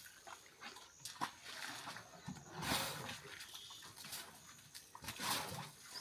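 Hippopotamuses wallowing in a mud pool, making irregular noisy sounds, loudest about two and a half and five seconds in.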